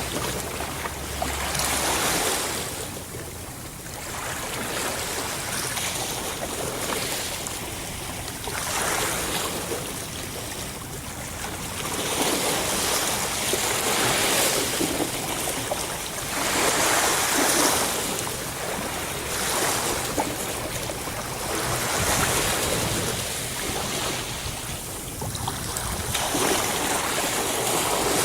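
Sea waves washing onto a shore, the surf swelling and fading in repeated surges every few seconds.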